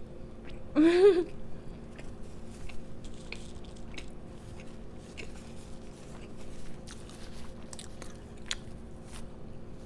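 Close-miked chewing and biting of a fried chicken sandwich, many small wet clicks and crunches. About a second in, a short voiced 'mm' rising in pitch is the loudest sound, over a steady low electrical hum.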